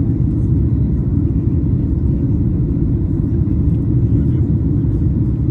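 Steady low rumble of a Boeing 737 MAX 8's cabin in flight: engine and airflow noise heard from inside the passenger cabin.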